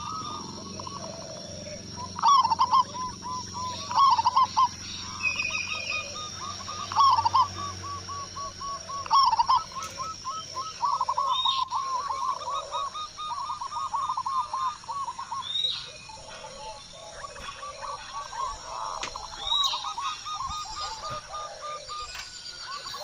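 Zebra doves (perkutut) calling: runs of quick, rolling coo notes repeated in series, with short higher chirps of other birds over them.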